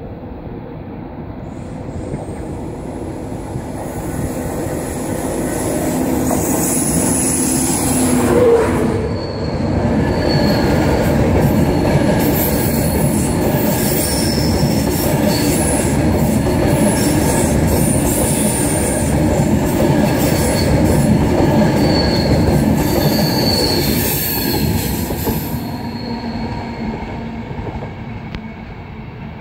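A Virgin Trains East Coast InterCity 225 express train (Class 91 with Mark 4 coaches) passing close by at speed, its wheels squealing on the curved track. It builds to its loudest about eight seconds in as the front end passes, then fades as the train runs away.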